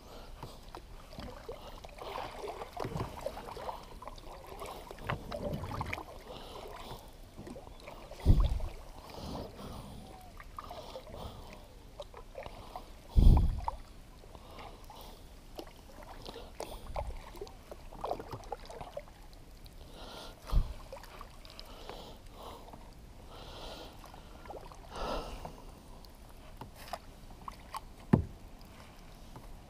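A kayak being paddled and pushed backward: paddle strokes with scraping and splashing, and sharp knocks of the paddle or hull, four of them standing out, the loudest about halfway through.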